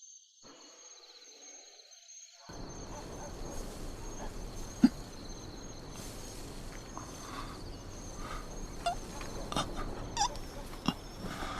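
Crickets chirping in a steady high trill. From about two and a half seconds in there is a hiss under them, with scattered small clicks and one sharp click about five seconds in.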